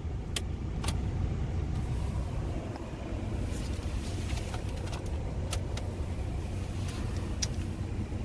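Steady low rumble inside the 2020 Audi SQ7's cabin with the car running, with a few light clicks of controls being pressed.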